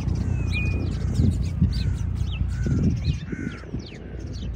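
A flock of pond birds calling, many short high calls and chirps overlapping, with a steady low rumble underneath.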